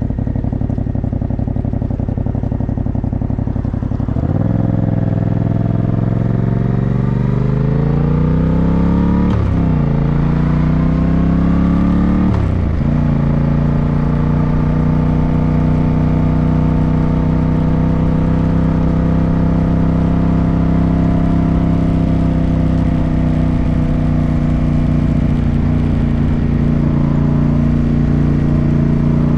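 Yamaha motorcycle engine running low and steady, then accelerating about four seconds in, climbing in pitch through two upshifts, each heard as a brief drop in revs, before settling into a steady cruise.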